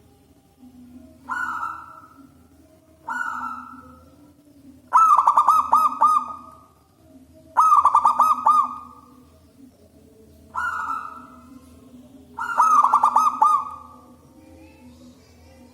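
Zebra dove (local perkutut) cooing loudly in repeated phrases. Short single coos alternate with longer rolling, stuttering coos, about every two to three seconds.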